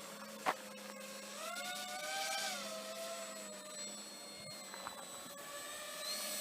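Electric motor and propeller whine of a radio-controlled aircraft, running steadily, rising in pitch about one and a half seconds in and falling back a second later. A single sharp click about half a second in.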